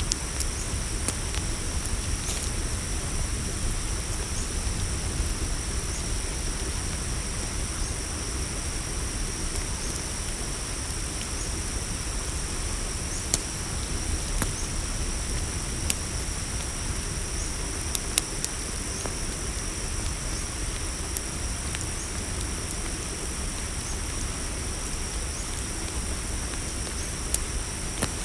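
Campfire crackling, with scattered sharp pops and a few louder snaps, over a steady chorus of crickets trilling and a low steady rumble.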